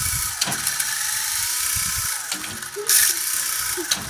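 Small electric motor and rotors of a toy RC helicopter running with a steady whine that dips and recovers in pitch as it climbs and descends, with a brief loud burst of noise about three seconds in.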